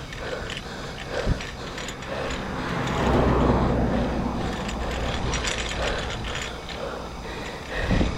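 Bicycle freewheel ratchet clicking as the bike rolls, with wind rumble on the microphone swelling about three seconds in.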